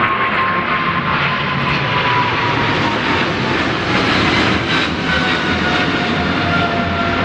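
Jet airliner engines running loud and steady as the aircraft passes, with a high whine that slowly falls in pitch.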